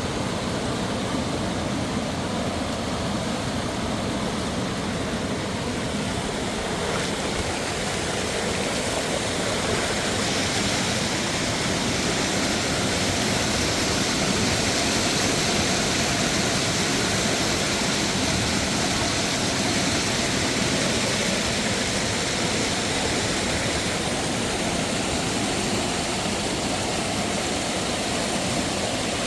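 Steady rush of a waterfall, growing slightly louder about ten seconds in.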